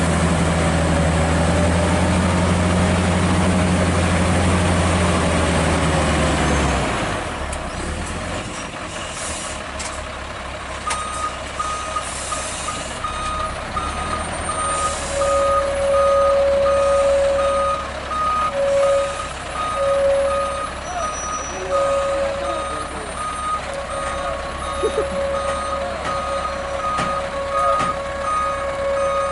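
Heavy truck's diesel engine running steadily, cutting off about six seconds in. From about eleven seconds a reversing alarm beeps evenly, roughly once a second, joined by a second, lower tone that sounds on and off.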